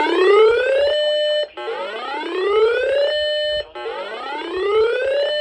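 Electronic whooping alert tone played over a radio broadcast. Each whoop sweeps upward in pitch, holds on a steady note for about half a second and cuts off sharply, and it repeats about every two seconds, about three times.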